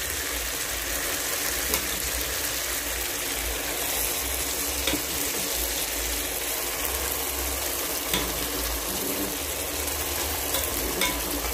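Tomato and spice mixture sizzling steadily in a metal pot as boiled green grams are added and stirred in with a wooden spoon, with a few short clicks of a spoon against the pot.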